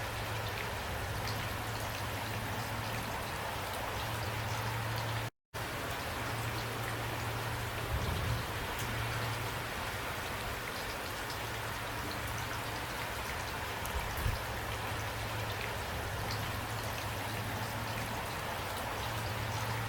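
Steady rain, with individual drops ticking on a surface, over a low steady hum. The sound cuts out completely for a split second about five seconds in.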